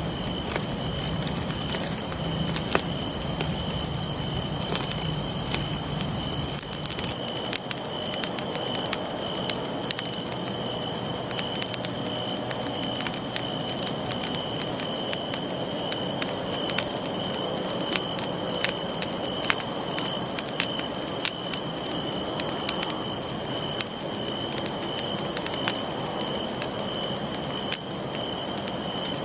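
Campfire of burning wood crackling, with frequent sharp pops, over a steady high insect trill.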